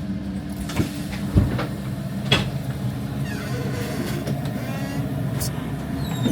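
Regional electric train running on rails, with a steady low rumble and a few sharp clicks of the wheels over the track in the first couple of seconds, then a faint wheel squeal.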